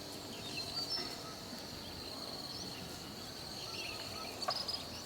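Forest ambience: a steady high-pitched insect trill, with scattered short bird chirps and a few sharp clicks near the end.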